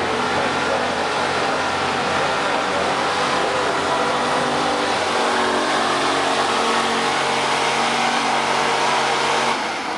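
Street-stock pickup truck engine running hard at high revs under load during a truck pull. The engine note holds steady, then drops off suddenly near the end.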